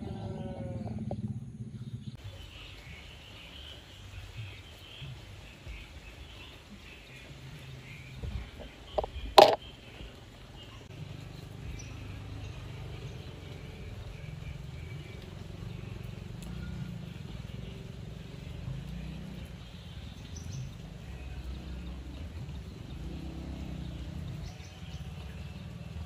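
Faint, high chirping of small birds over a steady low background rumble, with a single sharp knock about nine seconds in.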